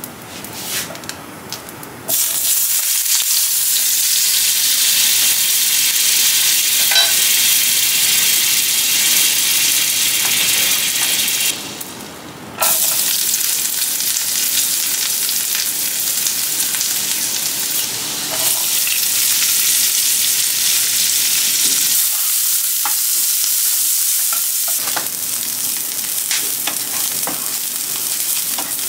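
Chopped garlic and then chopped onions sizzling in butter in a hot non-stick frying pan, stirred with a wooden spatula. The sizzle starts suddenly about two seconds in and stops for about a second near the middle before going on.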